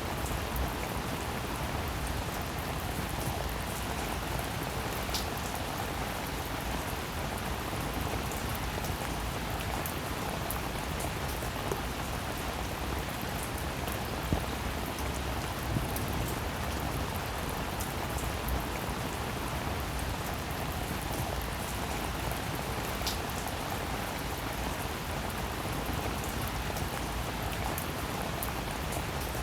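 Steady rain falling, an even hiss with individual drops pattering and a few sharper drips standing out now and then.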